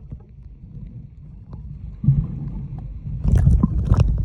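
A low, steady rumble that grows louder about halfway through, with scattered clicks and knocks near the end.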